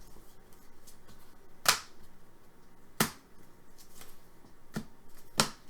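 Trading cards being handled and flipped through a pack, giving a few sharp clicks and snaps, three of them stronger, spaced a second or more apart.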